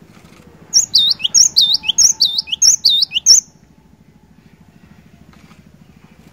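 Cinereous tit (glatik batu) singing one loud phrase of about five quick repeated high whistles, each dipping in pitch and rising again, ending about three and a half seconds in. A faint steady low hum runs underneath.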